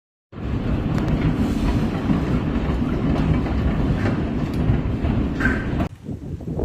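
Storm noise: a dense, steady clatter of precipitation pelting down over a deep rumble. It starts suddenly and cuts off abruptly near the end.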